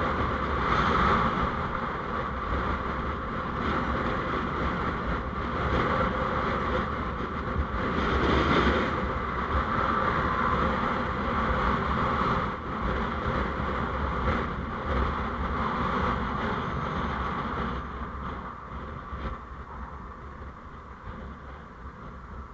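Road noise from a moving vehicle: a steady rumble with wind noise on the microphone, getting quieter over the last few seconds.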